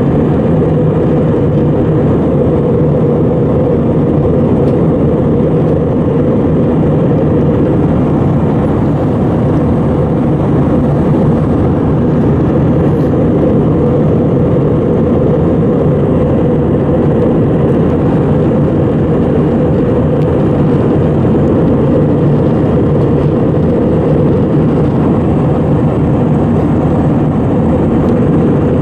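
Airbus A320 airliner heard from inside the cabin: a steady, loud low roar of jet engines and airflow that holds even throughout.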